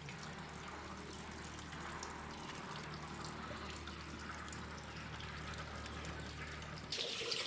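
Water trickling and running, over a steady low hum. The water grows suddenly louder and brighter about seven seconds in.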